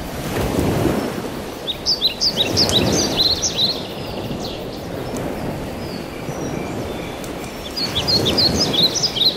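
Birds chirping in quick high runs, about two seconds in and again near the end, over a low rushing rumble that swells and fades.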